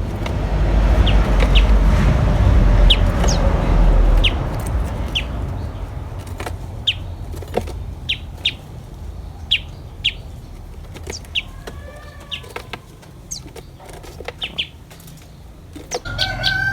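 Common tailorbird giving short, sharp, high chirps at irregular intervals of about one a second. A loud low rumble covers the first four seconds, then fades, and a few softer lower calls come in about two-thirds of the way through.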